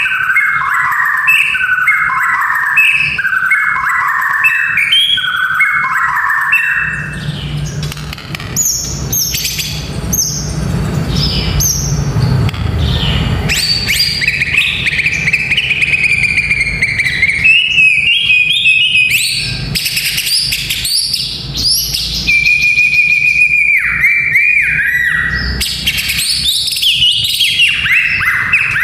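White-rumped shama (murai batu) singing: repeated rich whistled phrases, then long held whistles mixed with quick high notes. About seven seconds in, the song changes and a steady low hum sits under it.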